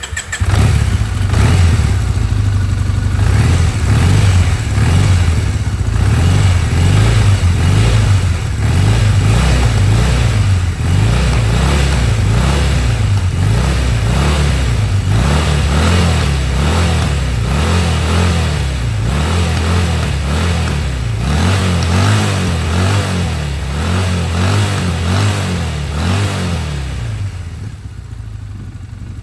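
Triumph Bonneville 790's air-cooled parallel-twin engine running steadily just after starting, growing quieter in the last couple of seconds.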